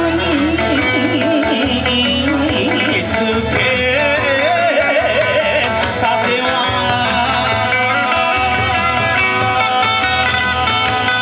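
Kawachi ondo bon-odori music: a steady drum beat under a wavering melody line.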